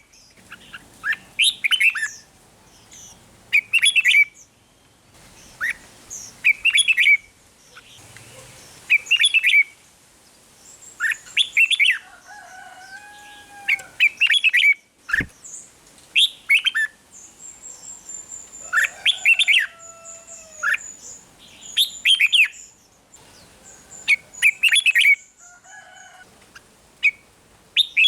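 Red-whiskered bulbul singing its short, bright, chirpy song phrases over and over, about one every two seconds, with a few lower whistled notes in between. There is one sharp click about halfway through.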